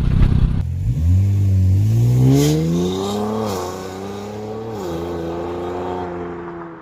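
Infiniti 3.0t twin-turbo V6 through an AAM Competition 3-inch catback, accelerating hard with its note rising in pitch. It upshifts twice, once about halfway through and again later, then fades as the car pulls away. A short burst of loud exhaust rumble comes first.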